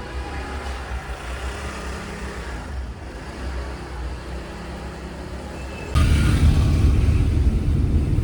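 Road traffic: a steady low rumble of vehicles, which becomes suddenly much louder about six seconds in.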